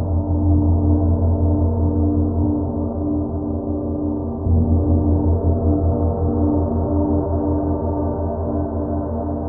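Gong ringing on: a deep, throbbing hum under many layered overtones, swelled again by a fresh stroke about halfway through.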